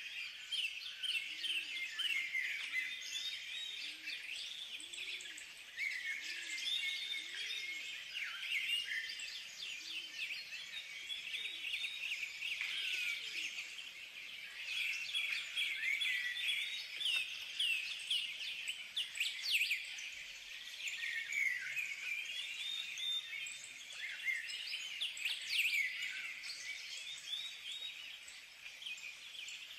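A dense chorus of many birds chirping, with short, quick calls overlapping one another.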